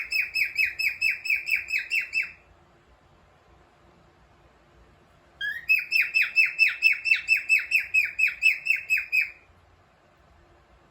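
Cockatiel singing: two runs of quick, repeated downward-sliding chirps, about five a second. The first run lasts about two seconds; after a pause of about three seconds the second starts with a short rising note and runs about four seconds.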